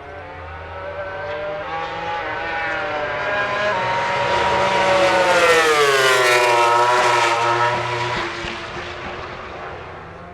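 A MotoGP prototype racing motorcycle passes at speed on track. Its engine note grows louder and climbs as it approaches, drops sharply in pitch as it goes by about six seconds in, then fades into the distance.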